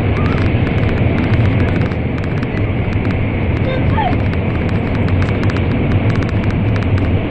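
N700 series Shinkansen heard from inside the passenger car, running at speed through a tunnel: a loud, steady rushing noise with a low hum underneath.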